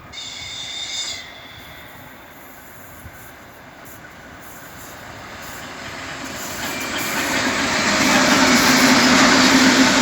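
2TE25KM diesel locomotive and its freight train approaching, the rumble of engine and wheels building from faint to loud over the last few seconds. A brief high ringing tone is heard in the first second.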